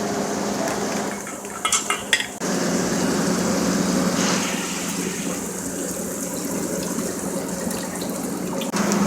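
Restaurant kitchen work: dishes and metal utensils clinking several times between about one and a half and two seconds in, over steady kitchen background noise.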